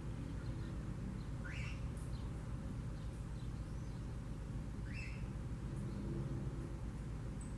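Red-cowled cardinal (galo-de-campina) giving a short rising call note twice, about three and a half seconds apart, over a steady low rumble.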